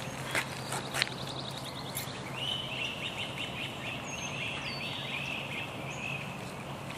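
A bird calling in a rapid, chattering run of repeated notes from about two seconds in, with two short falling whistles about four seconds in. Two sharp clicks come in the first second.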